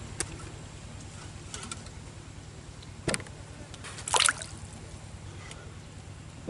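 Light water sounds and handling knocks: a few sharp clicks and a short splash about four seconds in, as a freshly caught fish and tackle are handled at the water.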